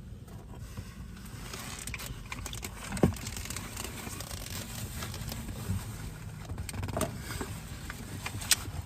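Low steady background hum with a few short clicks and faint rustles of a takeout food bowl and its packaging being handled, the sharpest click about three seconds in.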